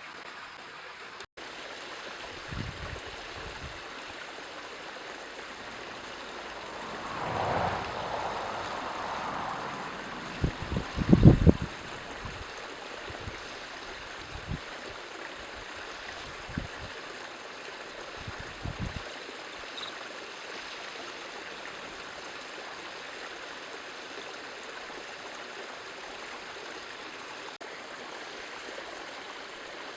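Steady outdoor rushing noise, with a few low thumps that are loudest about ten to twelve seconds in.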